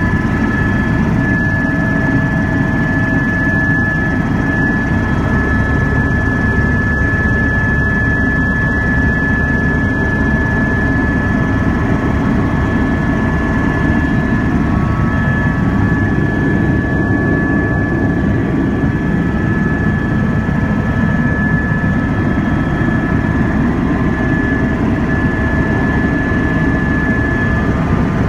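Astar (AS350) helicopter in flight, heard from inside the cabin: a steady, loud rotor and turbine rumble with a constant high whine over it.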